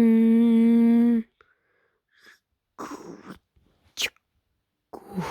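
Cartoon sound effects: a loud, steady buzzing tone held for just over a second that cuts off sharply, then a few short scattered noises and a quick rising whoosh about four seconds in.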